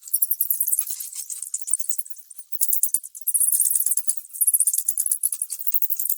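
Rapid, high-pitched rattling, shaken in surges. It is made of dense clicks with no low tones, and it grows stronger about halfway through.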